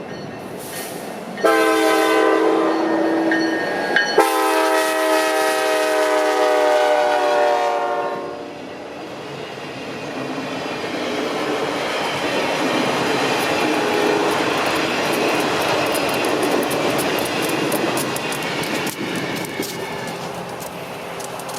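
Diesel locomotive air horn sounding twice, a blast of about two seconds and then a longer one of about four, both a multi-note chord. The train then rolls by with a steady rumble of wheels on rail and quick clicks over the rail joints.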